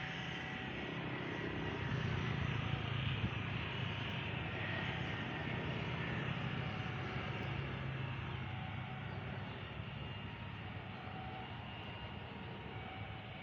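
Aircraft engines running, a steady noise with a strong low hum that swells to its loudest about two to three seconds in and then slowly fades away.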